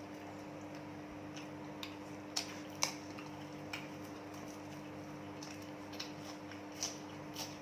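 Scattered soft clicks and smacks of someone eating and chewing, about eight in all, the sharpest two a little over two seconds in, over a steady low hum.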